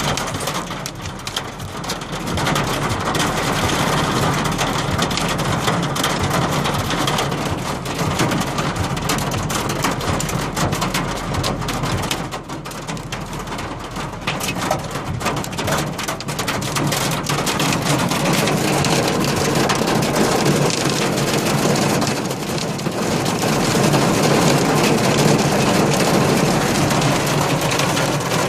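Hailstorm: hail and rain pelting down steadily in a dense clatter of countless small impacts.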